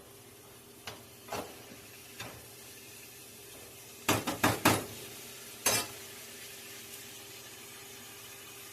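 Metal cooking utensils knocking against pots and pans: a few scattered clanks, then a quick run of four louder clanks about four seconds in and one more shortly after.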